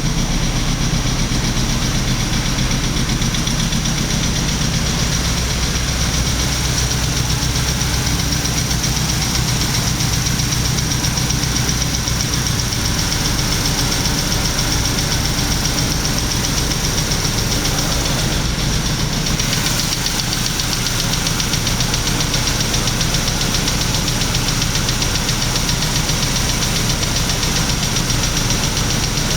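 BMW 320si's 2.0-litre four-cylinder engine idling steadily. The engine has a fault that the owner says needs attention.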